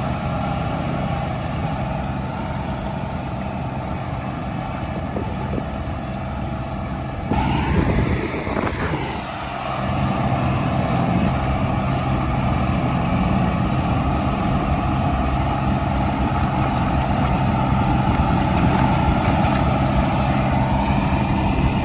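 Tractor engine running steadily. About seven seconds in, a sudden rush of noise swells for a couple of seconds, then the engine note settles again, a little louder.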